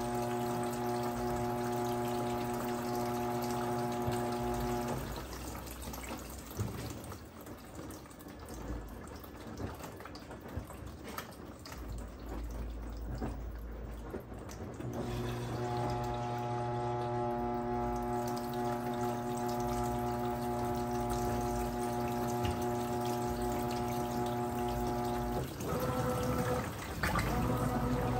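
Washing machine running mid-cycle: a steady motor or pump hum that stops about five seconds in, water sloshing and trickling in the drum, then the hum again from about fifteen seconds, changing to a different, wavering tone near the end.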